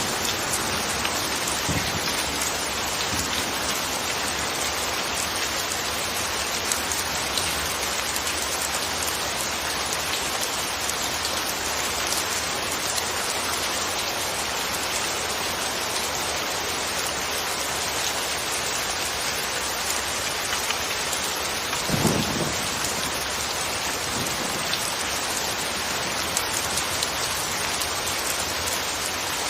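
Steady, even rain falling, with one brief low rumble about three quarters of the way through.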